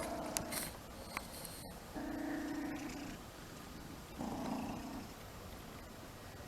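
Domestic cat making two soft, low calls, each about a second long, one about two seconds in and another about four seconds in.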